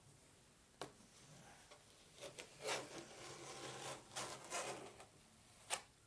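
Rubbing and scraping on a chalk-painted wooden cabinet door during chalk paste transfer work, with a light click about a second in and a sharper click near the end.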